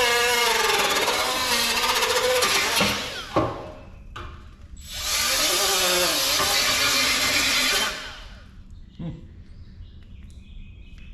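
Handheld power tool running in two bursts of about three seconds each, with a short pause between them. Its pitch wavers as it bears on the work.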